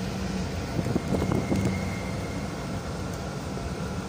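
Steady rumble of a commuter train heard from inside a crowded carriage, with a few brief knocks and snatches of passengers' voices about a second in.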